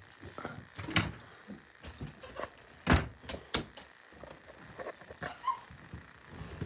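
Scattered knocks and thumps, several a second at times, the loudest about three seconds in.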